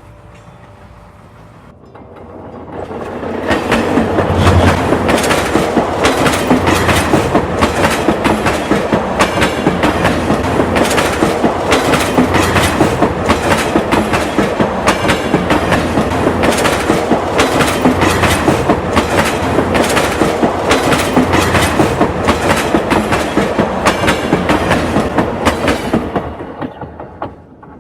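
A train passing close by, its wheels clattering over the rail joints in a rapid run of clicks. It builds up over the first few seconds, holds loud for about twenty seconds, and dies away near the end.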